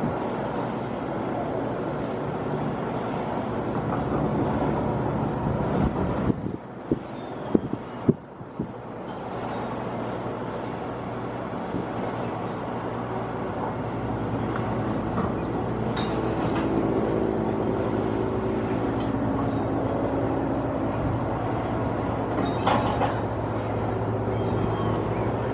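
Firefighting helicopter running with a steady drone. There are a few sharp knocks and a brief dip in level about six to eight seconds in.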